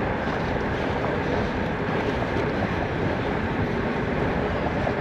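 Steady rush of wind and tyre rumble, picked up by a chest-mounted action camera on a moving gravel bike.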